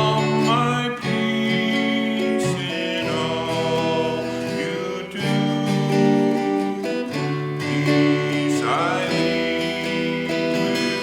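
Acoustic guitar music, with chords strummed and picked at a steady pace.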